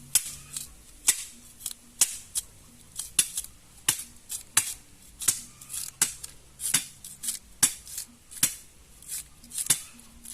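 Knife chopping scallion: sharp, irregular taps, about one or two a second.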